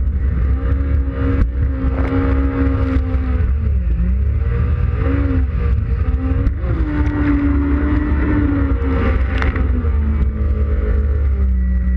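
Yamaha WaveRunner FX Cruiser High Output jet ski engine running under way, its pitch dipping and rising as the throttle changes. Near the end the pitch drops and settles lower as the throttle eases off.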